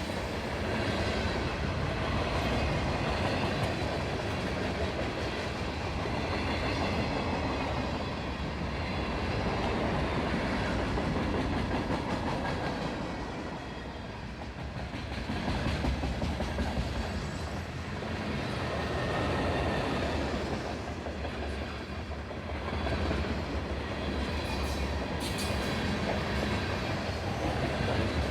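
Long CSX freight train rolling steadily past, its cars' wheels running on the rails in a continuous rumble that swells and eases every few seconds.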